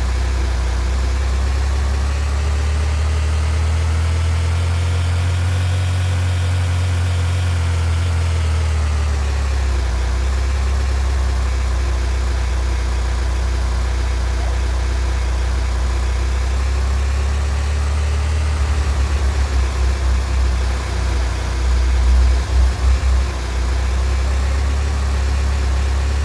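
A vehicle's engine running under a steady low drone, its pitch slowly rising and falling. A run of low pulsing thumps comes about three quarters of the way in.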